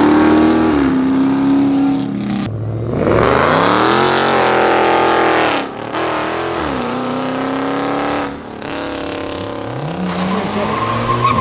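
A car engine revving hard as it pulls away: held high at first, it drops, climbs steeply again about three seconds in, falls back near the six-second mark, runs steadier, and climbs once more near the end.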